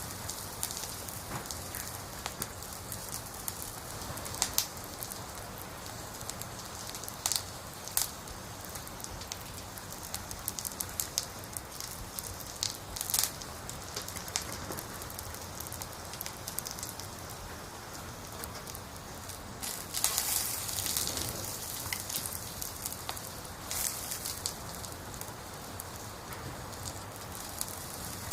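Campfire of burning firewood crackling over a steady hiss, with sharp pops here and there and a louder flurry of crackling about two-thirds of the way through.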